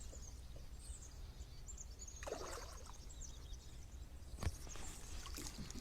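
Faint outdoor background on the water: a steady low rumble with brief high chirps scattered through it, a short rustle about two seconds in and a single sharp click a little after halfway.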